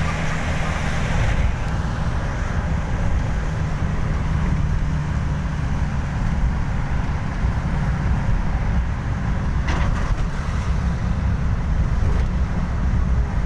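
Motor vehicle running steadily in traffic: a continuous low engine and road rumble with a fainter hiss above it, and a short sharp knock about ten seconds in.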